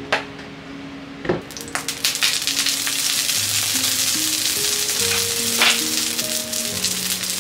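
Chirimen jako (dried baby sardines) sizzling and crackling in hot oil in a frying pan, the sizzle starting about a second and a half in after two sharp knocks. Background music plays underneath.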